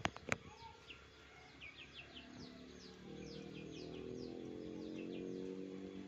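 Small birds chirping over and over in quick, high, downward-sweeping chirps. From about two seconds in, a low steady hum swells in and is loudest near the end, and there are a few sharp clicks at the very start.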